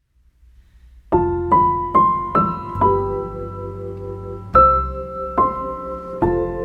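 Soft piano music: after about a second of near silence, single notes are struck roughly every half second, stepping upward, then the notes ring on over sustained low chords.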